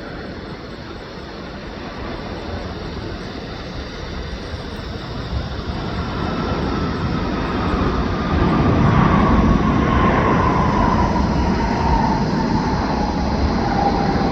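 Jet airliner's engines at takeoff power as it passes, the noise building and at its loudest from about eight seconds in, with a whine that falls steadily in pitch as the aircraft goes by.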